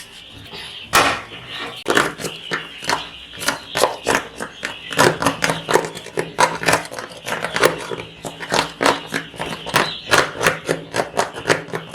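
Rapid scraping and rustling strokes, several a second, as litter is scooped and packed up in the chicks' pen, over a steady high chorus of chicks cheeping.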